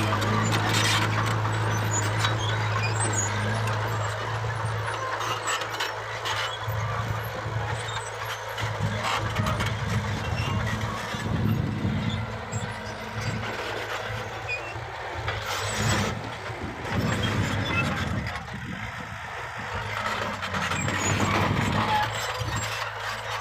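Heavy earthmoving machinery at work: diesel engines running with a steady low hum that fades after about four seconds, under continual rough noise and scattered clanks.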